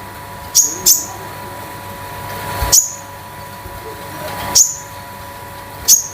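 A caged konin songbird giving short, sharp metallic call notes: five quick high chirps, each dropping steeply in pitch, two close together near the start and the rest a second or two apart.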